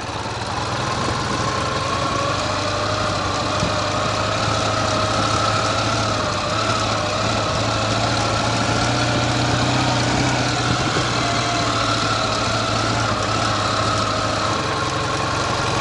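Ural sidecar motorcycle's flat-twin engine running steadily as it pulls the bike through loose sand.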